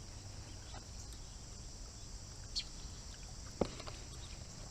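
Faint steady buzzing of insects, with a few short light clicks.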